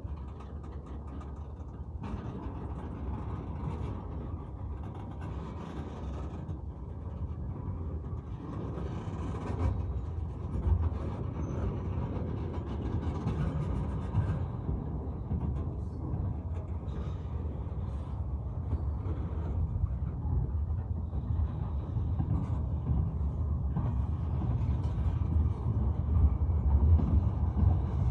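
Freight cars rolling slowly past: a steady low rumble of steel wheels on rail with scattered clanks and clicks, growing louder near the end.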